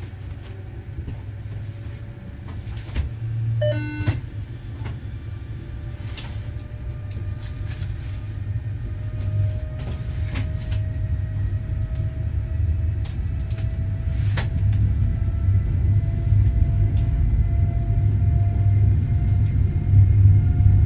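Electric train pulling away from a station: a low rumble that grows steadily louder as it gains speed, with a faint whine rising slowly in pitch from about nine seconds in and scattered clicks of the wheels over rail joints and points. A brief tone sounds about four seconds in.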